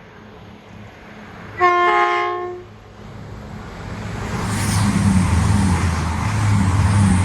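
Diesel train sounding its horn once for about a second, then drawing closer with its engine running and wheel and rail noise rising.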